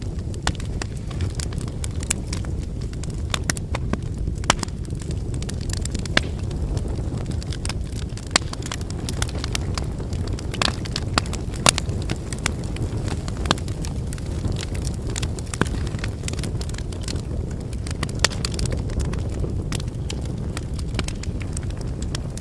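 Wood fire burning: a steady low rush of flame under frequent sharp crackles and pops of burning firewood, with a handful of louder pops scattered through.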